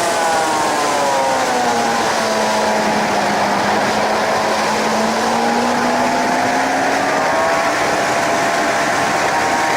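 Suzuki GSX-R 750 K7's inline-four engine under heavy wind rush, its revs falling over the first three seconds as the bike slows for a corner, holding low, then climbing again near the end as it drives out.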